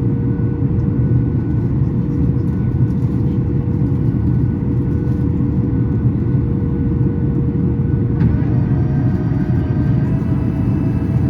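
Steady low rumble inside the cabin of a Boeing 737 MAX 8 airliner, its engines and airflow heard from a window seat. About eight seconds in, a set of steady higher tones joins the rumble.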